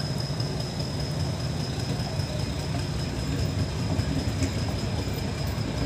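Metre-gauge passenger coaches rolling past on the track, a steady low rumble of wheels on rails.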